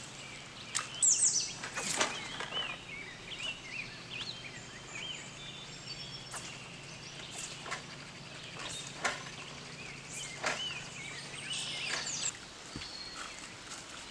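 Songbirds calling in the surrounding woods: many short high chirps and quick falling whistles, scattered all through. Under them runs a faint steady low hum that stops about twelve seconds in.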